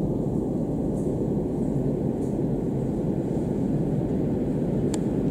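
Work train of rail-loaded flatcars hauled by an ED75 electric locomotive rolling slowly in. It is a steady low rumble with little higher sound.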